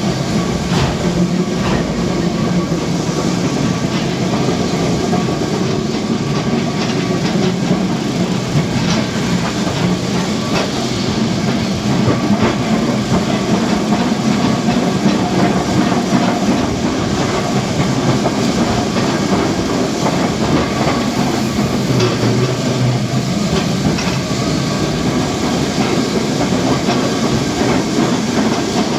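Lisbon's vintage Tram 28 streetcar running along its rails: a steady rumble with scattered clicks and clacks of the wheels over the track, and faint steady tones above it.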